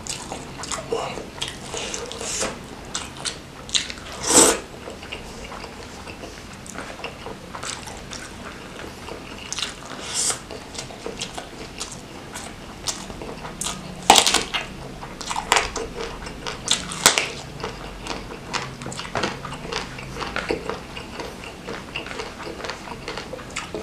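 Close-miked eating sounds: wet lip smacks and chewing of soft fried gourami flesh dressed in chili sambal, with sticky finger sounds as the fish is pulled apart. A few sharper smacks stand out, about four seconds in and again around fourteen to seventeen seconds.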